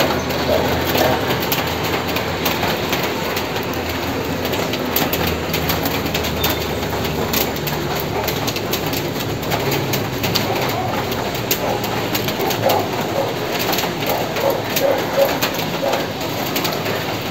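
Steady rain falling, with many scattered drips ticking on nearby surfaces, while a bird calls repeatedly in short phrases.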